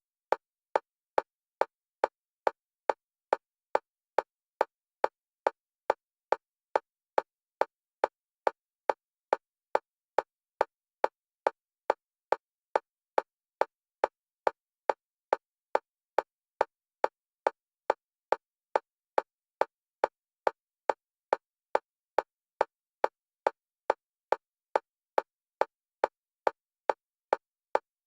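Single-pitch metronome clicks for EMDR bilateral stimulation, evenly spaced at about two a second with silence between, alternating between the left and right stereo channels.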